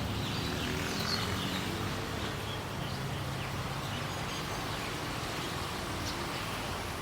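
Outdoor street ambience: small birds chirping now and then over a steady wash of traffic noise with a low hum.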